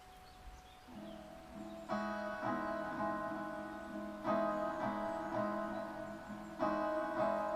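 Fingerstyle acoustic guitar music: quiet at first, picked notes come in about a second in, then three ringing chords about two and a half seconds apart, each fading slowly.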